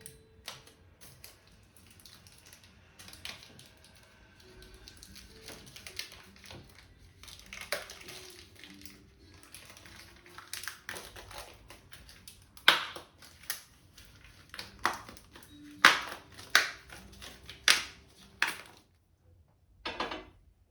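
Irregular clicks and sharp knocks of objects being handled, the loudest coming in a cluster in the second half.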